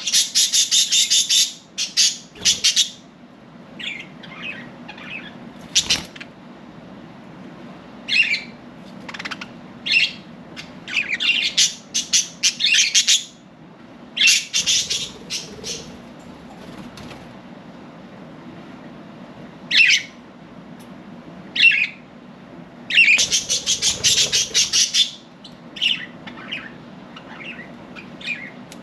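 Budgerigars chirping and chattering in bursts, with louder runs of chatter at the start, near the middle and about 24 seconds in. A steady low hum runs underneath, and there is one sharp click about six seconds in.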